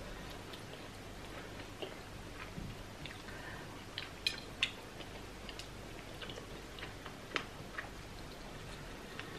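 Close-up eating sounds: chewing seafood okra soup, with wet mouth clicks and smacks. A pair of sharper clicks comes a little before halfway as food goes into the mouth, and another about three-quarters through.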